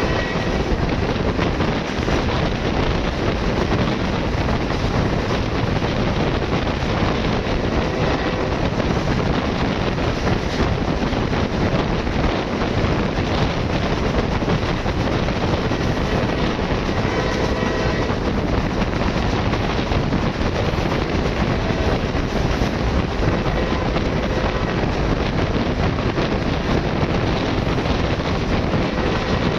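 Passenger train running at speed: a steady, unbroken rumble of wheels on rail, with wind buffeting the microphone.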